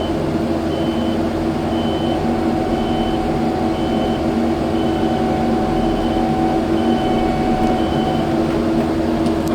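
Kubota skid steer's diesel engine running steadily while its backup alarm beeps about once a second as it reverses; the beeping stops about a second before the end.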